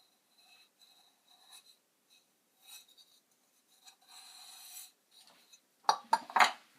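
Light scraping and rubbing of small hard objects, then a short burst of loud clattering knocks about six seconds in.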